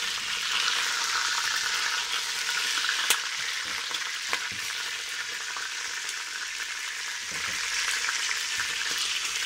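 Chicken pieces frying in hot olive oil in a pot with a steady sizzle. Two sharp knocks come about three and four and a half seconds in.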